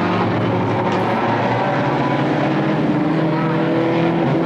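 Stock car engines running hard, several at once, their pitches overlapping and slowly rising and falling.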